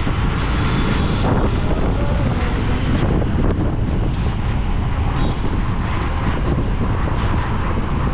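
Wind buffeting the microphone of a moving motorcycle, over steady road and traffic noise.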